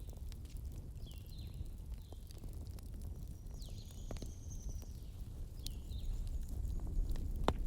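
Wood fire burning with a low rumble and irregular crackles and sharp pops, the loudest pop near the end. Short high squeaks come and go between the crackles.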